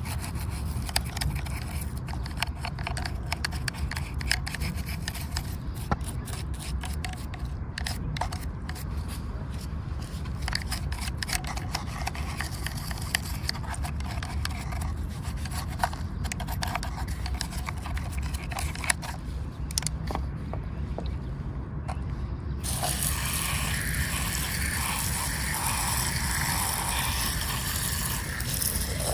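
Small scraping and clicking as dried mud is worked off a miniature toy car. About three-quarters of the way in, a steady hiss of water spray starts and runs on.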